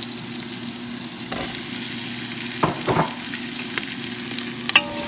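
Sliced onions sizzling steadily in hot oil in a metal pot as sliced red and green peppers are added and stirred in. There are a few knocks about halfway through and a sharp clack near the end.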